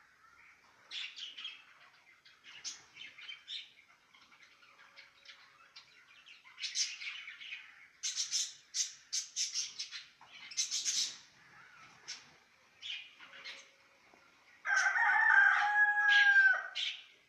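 Caged Australian parrots chirping and chattering in many short, high calls. Near the end comes one much louder, drawn-out call lasting about two seconds.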